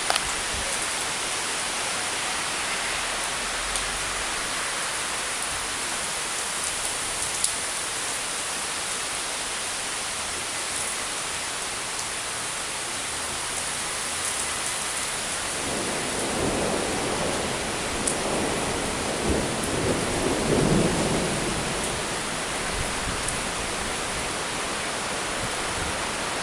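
Steady rain falling during a thunderstorm. A rumble of thunder rolls through for several seconds past the middle.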